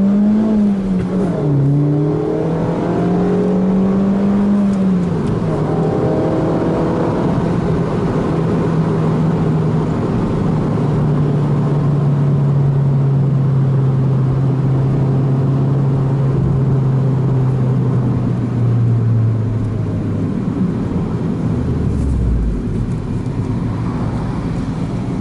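Suzuki Swift Sport ZC32S's 1.6-litre four-cylinder engine sounding through a Rosso Modello aftermarket muffler while driving. The revs climb at the start, dip and rise again about a second and a half in, then hold steady with the pitch slowly sinking, and drop away near the end.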